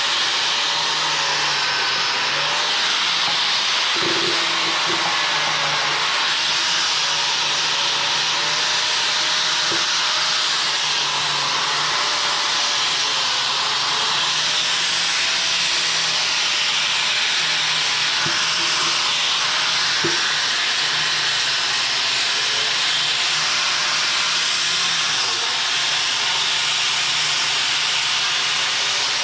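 Stick welding arc burning steadily as a bead is laid: a continuous frying hiss with a faint wavering hum underneath.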